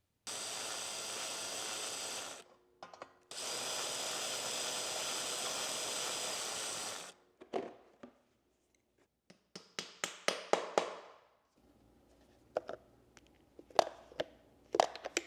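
A small motor runs steadily with a whirring noise in two stretches, about two seconds and then about four seconds, each cutting off suddenly. After that comes a string of short, sharp clicks and knocks.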